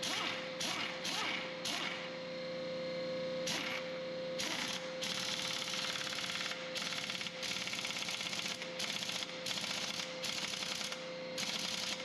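Impact wrench hammering in a series of rattling bursts, short at first and then longer ones of up to about a second, running nuts down onto threaded ends. A steady hum runs underneath.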